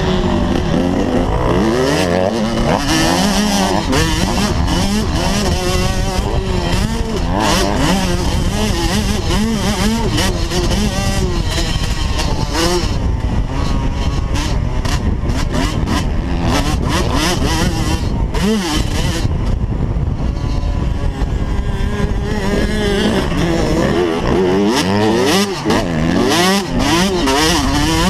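Small motocross bike engines revving hard and dropping off again and again, the pitch climbing and falling with each burst of throttle and gear change.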